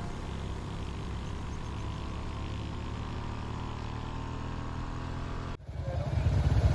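Motorbike engines running, with an abrupt break about five and a half seconds in, after which a much louder low rumble takes over.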